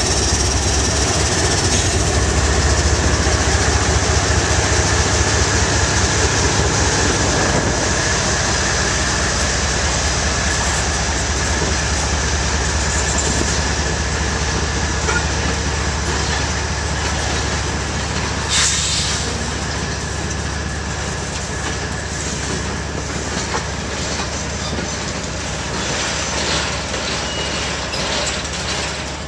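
Freight train passing close by: the CSX diesel locomotives' engines rumble loudly as they go past, then the autorack cars roll by with wheels clattering on the rails and the rumble easing. One sharp clank about two-thirds of the way through.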